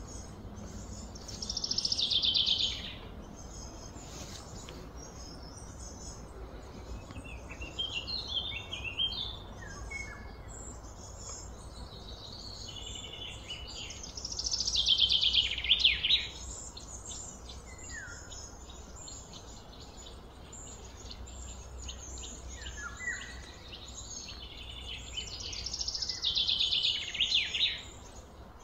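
A songbird singing outdoors: a loud, fast, high trilled phrase comes three times about twelve seconds apart, with shorter chirps from other birds in between, over a steady low background hum.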